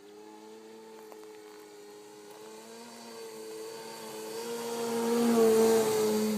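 Electric motor and propeller of a Seagull Edge 540 RC model airplane (electric-power conversion) droning in flight, growing louder as the plane passes close about five seconds in, its pitch dropping slightly as it goes by.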